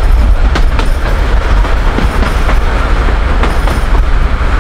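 Narrow-gauge passenger train running along the track, heard close from the side of the coach: a steady loud rumble with irregular clacks from the wheels over the rail joints.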